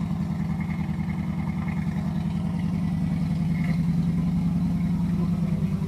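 Carbureted small-block Chevy 350 V8 idling steadily with an even, regular beat shortly after a cold start.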